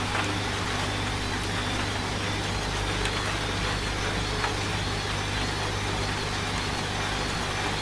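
Washing machine running with a steady low hum, over an even hiss of rain and a few faint ticks.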